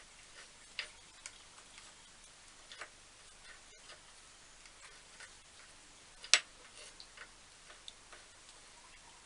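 Light metal clicks and taps at irregular intervals as parts of an old bench drill are handled and fitted, with one sharper knock about six seconds in.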